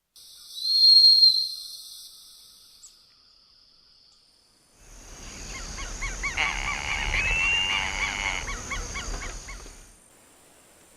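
Bird calls: one loud whistled note about a second in, then a dense run of short, rapidly repeated calls lasting about five seconds that stops abruptly.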